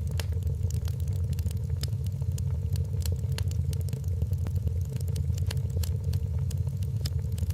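Wood fire crackling in a fireplace: frequent sharp snaps and pops at irregular intervals over a steady low rumble.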